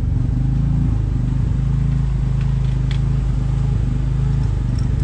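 A machine running steadily with a low, pulsing hum. No cutting is heard.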